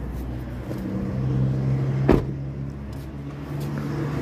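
A vehicle engine running steadily with a low hum, and a single sharp knock about two seconds in.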